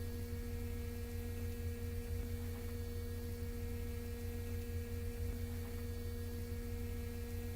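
Steady electrical hum inside a Kawasaki R160B subway car standing at a station: two steady tones over a low rumble.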